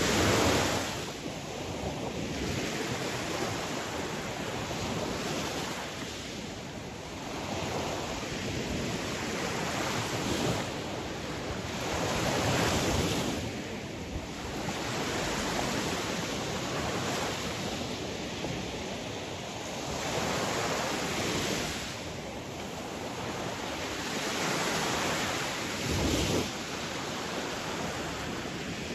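Sea waves breaking and washing on a shore, swelling and receding every few seconds, with a steady wash between them.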